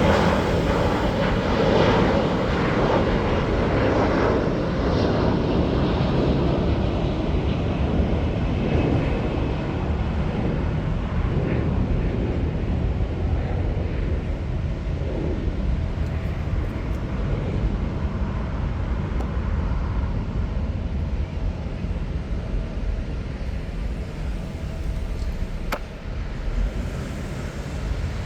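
A jet airliner's engines rushing, loudest at first and fading slowly as the plane moves away, over a steady low rumble.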